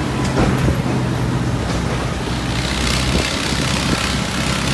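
A motor vehicle's engine running with a steady low drone, with a few short knocks or rattles about a third of a second and again under two seconds in.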